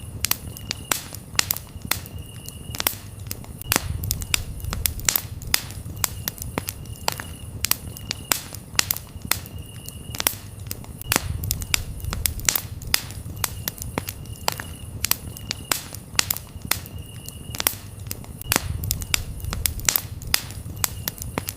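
Wood campfire crackling, with many sharp pops over a low rumble of the flames. Crickets chirp in short, repeated bursts behind it.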